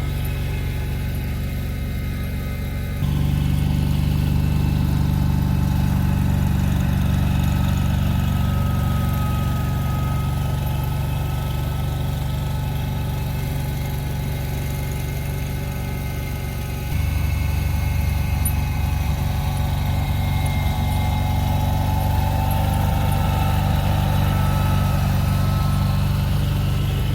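Engine of the gasoline-powered plowing vehicle running steadily at an even speed. It gets abruptly louder about three seconds in and changes tone again about seventeen seconds in.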